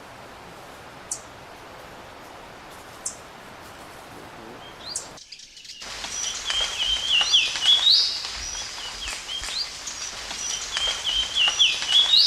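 Birds calling: a thin, high, falling note repeated about every two seconds, then, after a short break, a louder, rapid song of jumbled high chattering and warbling notes.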